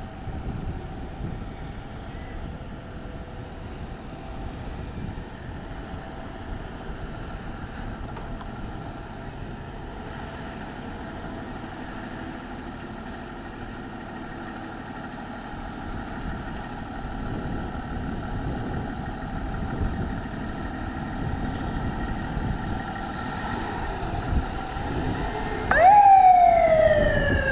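Fire engine running its siren as it approaches, a steady wail growing louder. Near the end it goes by close, loudest then, with a quick rise and then a falling sweep in pitch as it passes.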